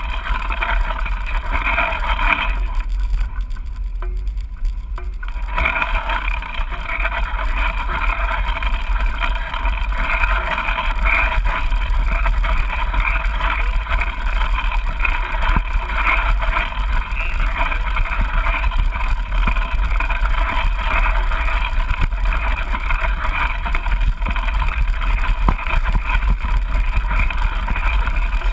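Steady rushing noise with a low wind rumble on the microphone, thinning out briefly about three seconds in.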